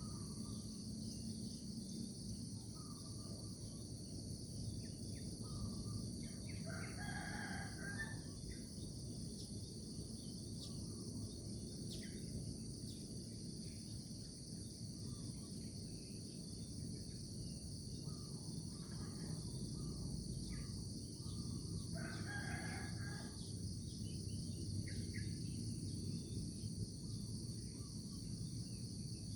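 A rooster crowing twice, about seven seconds in and again about twenty-two seconds in, each crow lasting about a second. Under it runs a steady high insect chorus of crickets, with a few short bird chirps and a low steady rumble.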